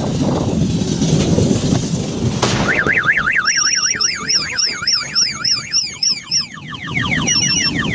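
Car alarm sounding about two and a half seconds in: a fast rising-and-falling electronic warble, about four or five sweeps a second. Near the end it changes to quicker sweeps and short stepped beeps. Before it there is a noisy street-and-fire background and a sharp crack.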